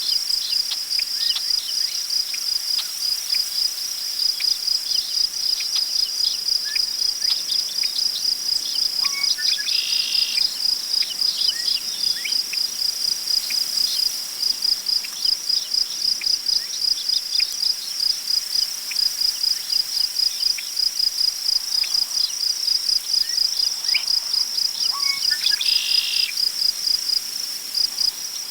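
Crickets chirping in a steady, even pulse, with a bird calling briefly twice, about ten and twenty-six seconds in, over a faint rustle of wind in tall prairie grass.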